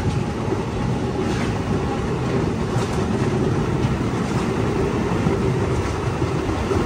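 Passenger train running at speed: a steady rumble of wheels on the rails, with a few faint clicks.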